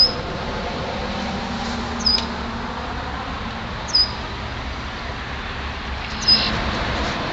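A bird giving a short, high chirp four times, about every two seconds, over a steady background of traffic noise.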